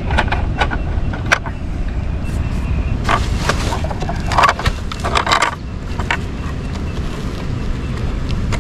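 Hands clicking and scraping at the plastic thruster housings of a Gladius Mini S underwater drone while seaweed tangled in its impellers is pulled out. There are a few sharp clicks early on and a busier run of scraping between about three and five and a half seconds in, over a steady low rumble.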